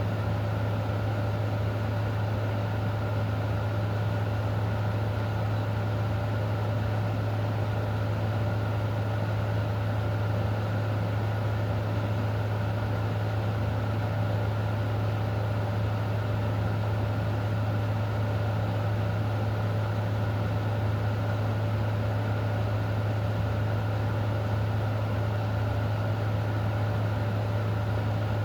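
Steady rain hiss under a constant low hum with a faint higher tone, unchanging throughout.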